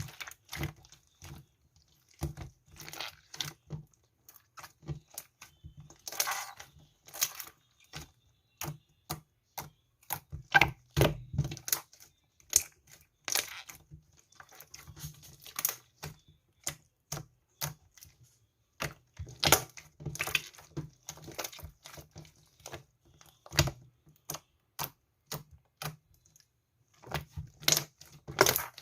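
Soft slime being pressed and worked by hand, giving irregular sharp clicks and crackles, sometimes in quick clusters.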